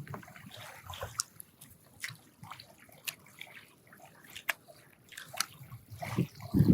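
Water sloshing and trickling, broken by scattered small clicks and knocks, with a louder splash near the end.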